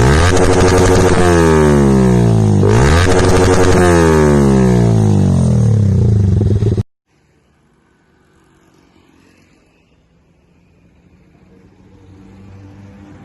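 Motorcycle with an aftermarket Akrapovic titanium exhaust revved hard in two throttle blips, each jumping up and then falling away, the second about two and a half seconds in. The sound cuts off abruptly about seven seconds in, leaving a faint low engine hum that grows louder near the end.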